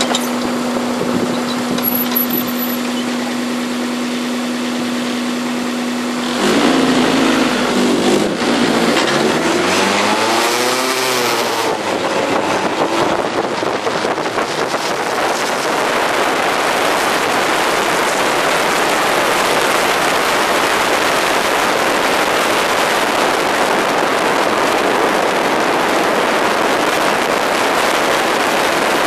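Ariel Atom II 245's engine heard from the open cockpit. It holds one steady note for about six seconds, then gets louder and accelerates hard, its pitch rising again and again through several gear changes. From about halfway through it turns into a dense, steady rush of engine and road noise at speed.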